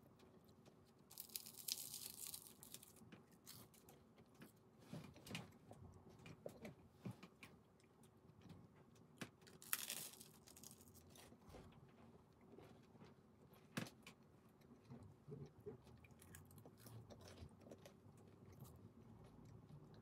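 Faint eating sounds: chewing and crunching of food, with scattered small clicks and two short hissy bursts, one about a second in and one near the middle.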